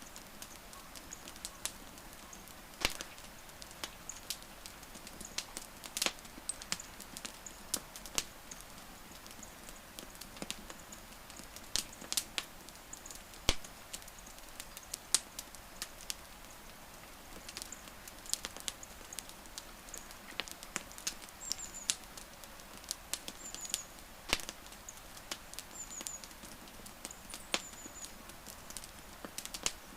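Wood fire crackling, with irregular sharp pops and snaps. Faint short high chirps come in now and then in the second half.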